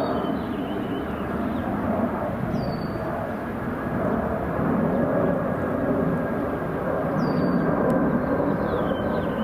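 A passing aircraft: a steady engine rumble with a thin whine, growing a little louder about halfway through. A small bird gives short high chirps three or four times.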